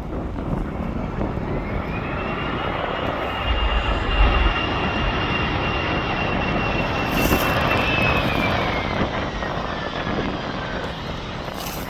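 Aircraft engines passing, a steady rumble with a high whine that rises, holds, then slides down in pitch as the aircraft goes by. Wind buffets the microphone underneath.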